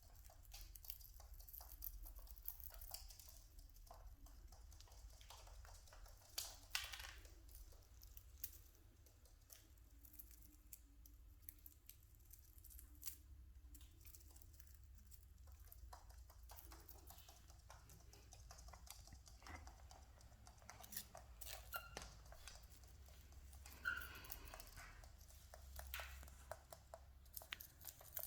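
Cockatiels husking and cracking grain with their beaks: faint, irregular small clicks and crunches, with a few louder cracks.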